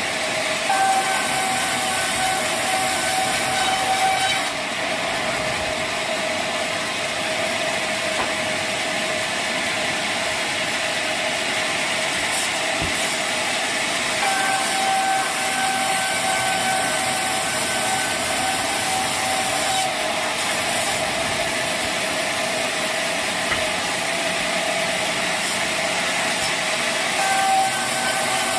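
Sawmill machinery running steadily with a loud hiss and a constant whine; a second, higher whine comes in three times for a few seconds each, about a second in, around the middle and near the end.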